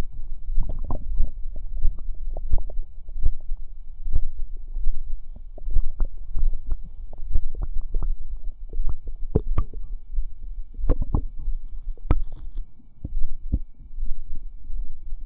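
Stomach and bowel sounds: irregular quick pops and bubbling clicks, often several a second, over a steady low throb.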